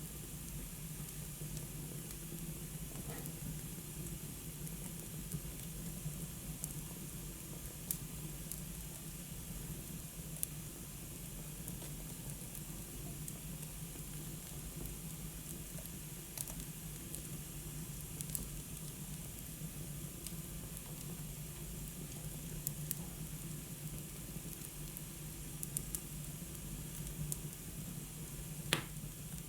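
Wood fire burning in a fireplace: a steady soft hiss with sharp crackles every few seconds, the loudest pop near the end.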